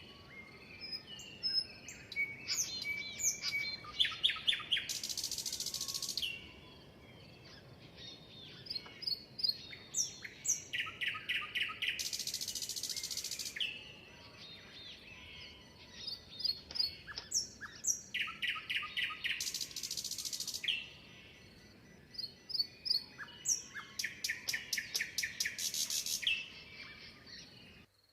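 A songbird singing four repeated phrases, each a run of quick high chirps that ends in a harsh, buzzy trill of about a second and a half, with pauses of a few seconds between phrases.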